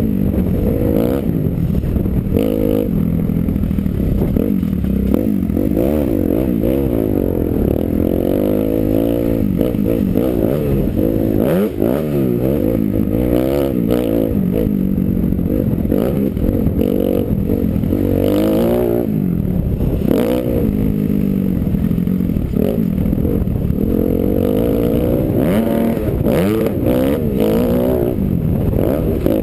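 Motocross bike engine revving up and down over and over as the rider rides, heard from a helmet camera, with scattered knocks and clatter.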